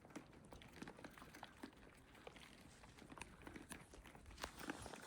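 Faint, scattered clicks and rustles of a deer herd moving and feeding, with a louder cluster of knocks about four and a half seconds in.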